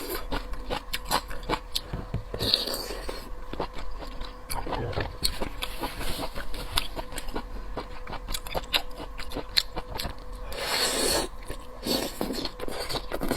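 Close-up chewing and biting of seafood, with a run of wet mouth clicks and crunches, plus a couple of longer, noisier sounds about three seconds in and again near the end.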